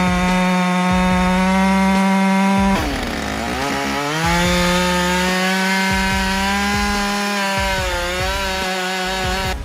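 Chainsaw running at high revs while cutting into wood. About three seconds in, its pitch sags sharply as the chain bogs down in the cut, then it climbs back and holds steady, with a slight dip again near the end.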